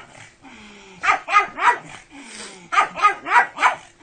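Pug barking in two quick runs: three barks about a second in, then four more near the end.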